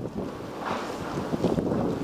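Strong gusty wind buffeting the microphone, with a gust swelling a little after half a second in.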